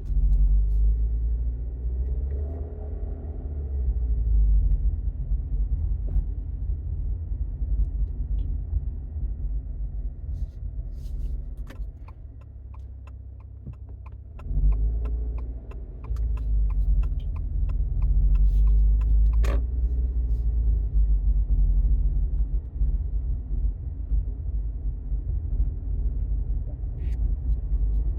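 Low exhaust drone and rumble heard inside the cabin of a Subaru Outback's turbocharged 2.4-litre flat-four fitted with STI mufflers: the resonant drone of the 1200–1500 rpm range. It eases off for a few seconds midway and then comes back, with a run of faint ticks in between.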